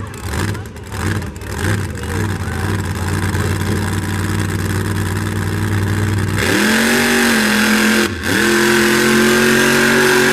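Monster truck engine rumbling and blipping its throttle at the start line. About six seconds in it suddenly launches to full throttle and rises sharply in pitch, with a brief dip near eight seconds, then runs flat out at a high, steady pitch.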